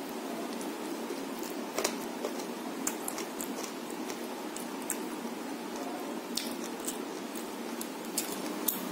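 Close-up eating sounds: rice and chicken curry being chewed with small, wet, squishy mouth clicks at irregular moments, and fingers mixing rice into curry on a plate, over a steady hiss.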